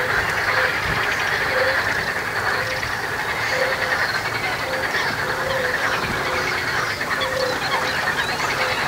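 Outdoor animal chorus: short low call notes repeating about twice a second over a steady din, with thin high chirps scattered above.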